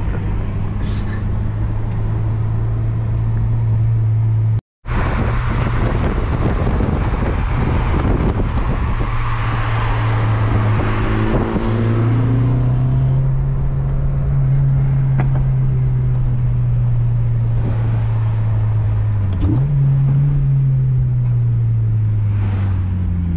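Car engine running steadily at a low drone, its pitch climbing twice, about halfway through and again near the end, as the engine speeds up. The sound breaks off for an instant about five seconds in.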